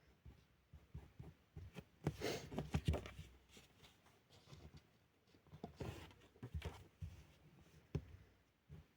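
Felt-tip pen drawing on paper: faint scratchy strokes, in two busier spells about two seconds in and again around six seconds in, with soft taps between.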